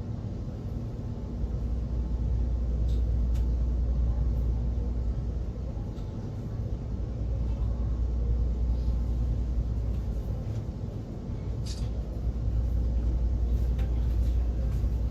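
Steady low rumble of a moving train heard from inside the passenger carriage, swelling and easing slightly, with a few faint clicks and squeaks from the carriage.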